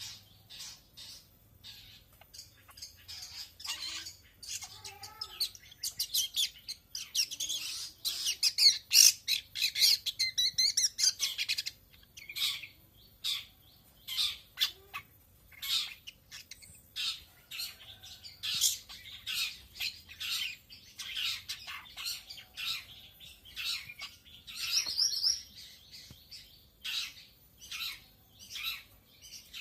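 White-rumped shama (murai batu) singing and calling: a dense, loud run of rapid song from about six to twelve seconds in, and otherwise a string of short, sharp high notes at irregular intervals.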